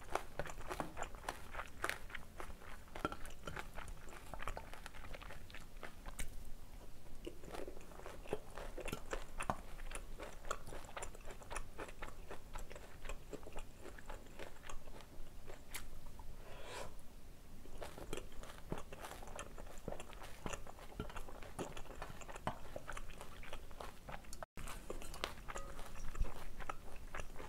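Close-up chewing and mouth sounds of a person eating spoonfuls of chopped Cheongyang green chilies in black-bean sauce: a steady run of small wet clicks and crunches.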